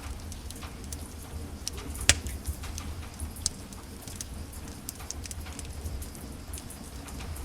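Wood fire crackling in a fireplace: scattered small pops, a sharp louder crack about two seconds in and another about halfway, over a steady low rumble of the burning.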